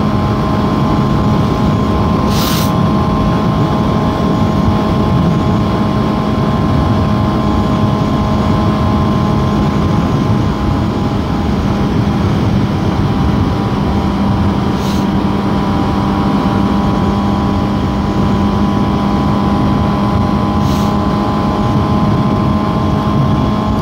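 Suzuki GSX-S750's inline-four engine running at a steady cruising speed, its hum holding one pitch throughout, under a constant rush of wind noise on the microphone.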